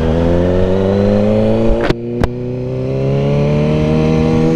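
A vehicle engine accelerating hard, its pitch climbing steadily. Just before halfway there are two sharp cracks and a drop in pitch, as in an upshift, then it pulls again.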